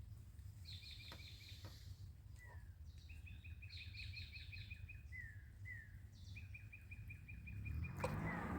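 Songbirds singing: repeated fast trills of short chirps and a few short falling whistled notes, over a steady low rumble. A brief louder noise comes near the end.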